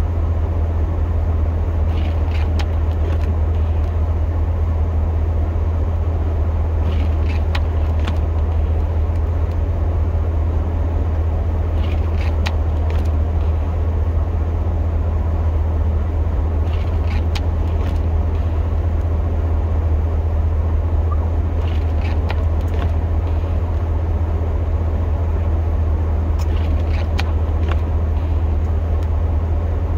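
Pickup truck engine idling, a steady low drone, with faint ticks about every five seconds.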